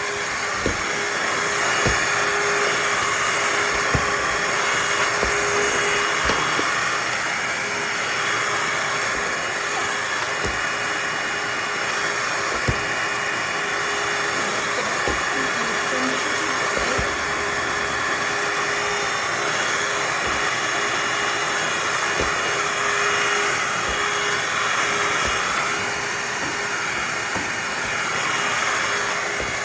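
Shark HydroVac MessMaster cordless wet-dry vacuum mop running steadily, a constant motor whine with a hissing airflow and a few light knocks as it moves over the floor.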